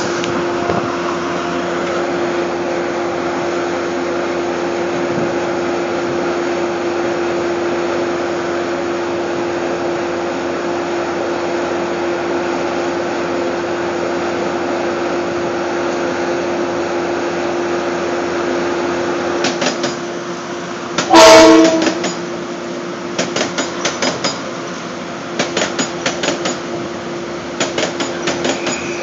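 Metro-North M8 electric multiple-unit train approaching and passing: a steady rushing noise with a low, even hum, then one short, loud horn blast about three-quarters of the way through. After that come rapid, rhythmic clicks of the wheels over the rail joints as the cars go by.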